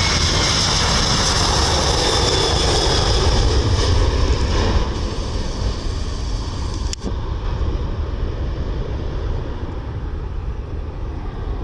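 Boeing 737-800's CFM56-7B jet engines running loud with a high fan whine, the roar easing off after about five seconds. About seven seconds in there is a sudden break where the sound changes abruptly.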